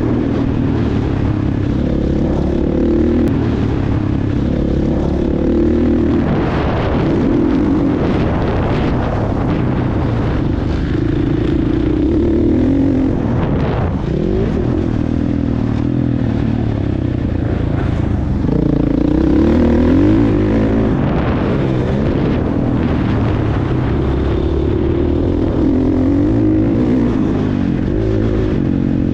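Motocross bike engine running hard, its pitch rising and falling again and again as the throttle is opened and closed through the track's sections.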